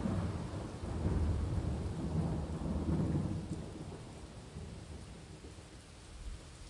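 Thunder rumbling over steady rain, the low rumble dying away a little past halfway and leaving the rain.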